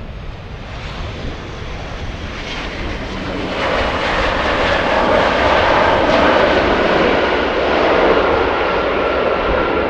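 Jet airliner's engines passing close by, the noise building over the first few seconds and then staying loud, with a faint steady whine above it.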